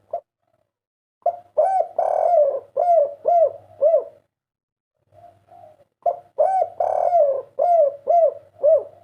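Spotted dove (tekukur), a 'kuk 3' singer, cooing: two phrases, each a run of about six short rounded coos with one longer, drawn-out note early on, a second's pause between the phrases.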